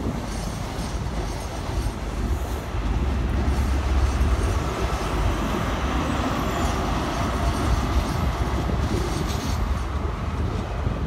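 InterCity 125 (HST) departing: Mark 3 coaches rolling past with their wheels rumbling over the rail joints and pointwork, then the rear Class 43 power car's MTU diesel engine going by. The sound is loudest about four seconds in as the power car passes.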